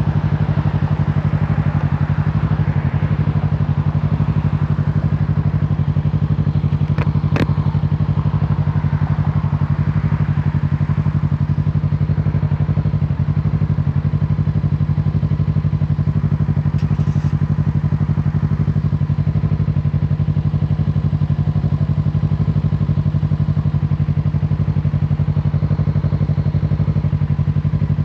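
Kawasaki Z650's parallel-twin engine idling steadily at one unchanging pitch, with a single sharp click about seven seconds in.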